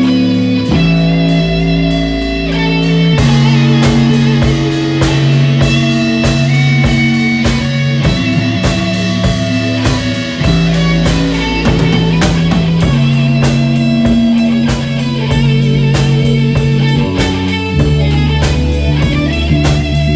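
Instrumental rock jam in A major: electric guitars and bass holding sustained notes that change every second or two, over a steady drum-kit beat.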